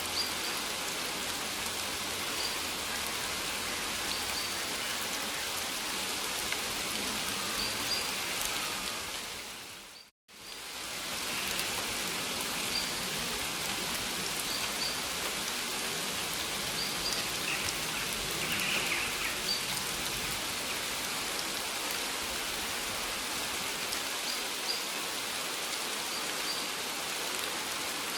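Steady rain falling on foliage, with faint short high chirps here and there. About ten seconds in, the rain fades out to silence for a moment and then fades straight back in.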